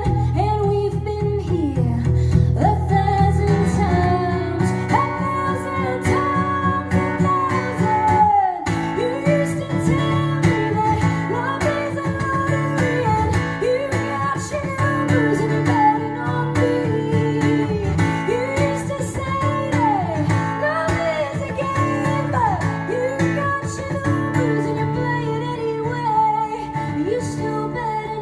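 Live pop-folk song: a woman sings a bending melody over a strummed guitar. The low guitar chords break off for a moment about eight seconds in, then come back.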